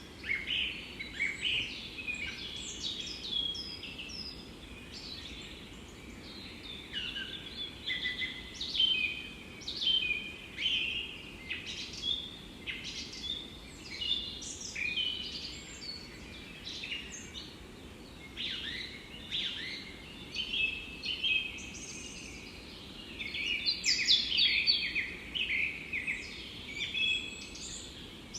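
Several birds singing and chirping at once in a forest, with short overlapping calls and trills over a faint steady background hiss.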